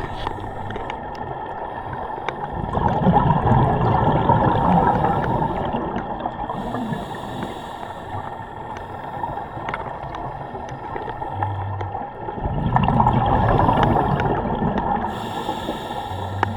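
Underwater gurgling of air bubbles, swelling twice about ten seconds apart, with scattered faint clicks.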